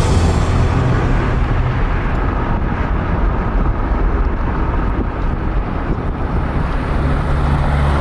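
A vehicle driving: steady engine hum and road noise.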